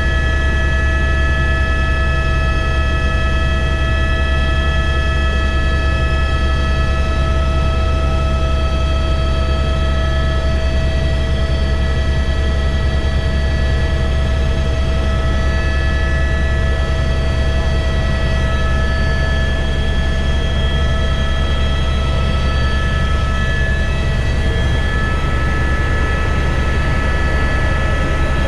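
Helicopter in flight: a steady, loud low drone of the rotor with several steady high whining tones from the turbine over it.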